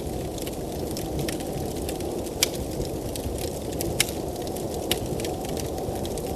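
Wood fire crackling, with frequent small pops and a few sharper cracks about two and a half, four and five seconds in, over a steady low rush of blizzard wind.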